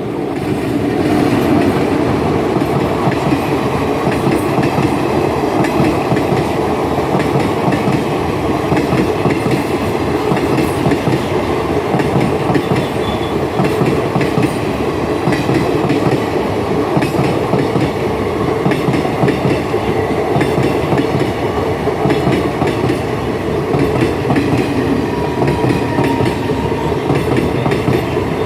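Haldibari–Kolkata Intercity express train running at speed, a loud, steady rumble and clatter of wheels on the rails.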